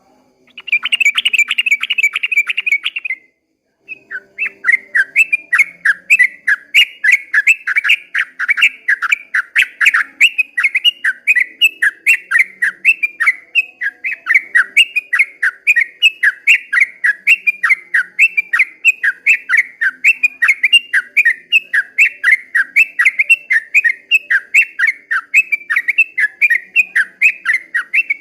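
Yellow-vented bulbul (trucukan) singing: a short burst of rapid chattering notes, a brief pause about three seconds in, then a long unbroken run of quick, sweeping notes at about four a second.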